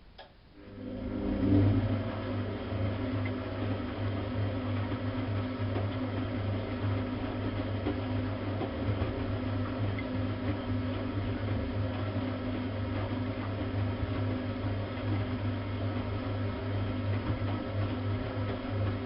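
Bosch WFK 2431 washing machine running: a click, then a steady motor hum that starts within the first second and holds at an even pitch.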